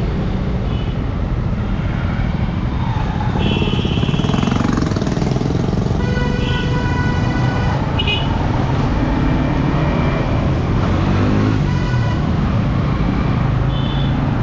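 Motorcycle riding at speed in traffic: a steady rush of wind on the microphone over the engine, with vehicle horns honking several times, the longest about six seconds in.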